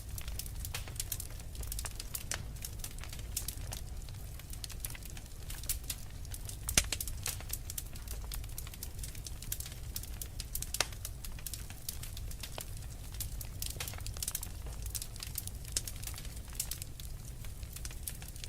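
Wood fire crackling: irregular sharp pops and snaps over a steady low rumble, with one louder pop about seven seconds in.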